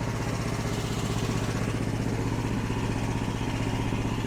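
An engine idling steadily with an even, fast low pulse.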